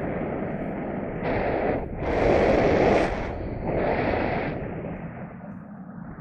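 Wind buffeting the microphone of a paraglider pilot flying into a strong headwind. It comes in uneven gusts: surges at about one, two and four seconds in, the strongest lasting about a second, then easing near the end.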